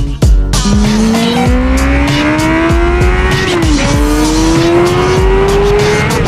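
600 cc inline-four sport bike engine accelerating hard through the gears, its pitch climbing steadily, dropping at an upshift about halfway through, then climbing again to another shift near the end. A hip-hop beat plays underneath.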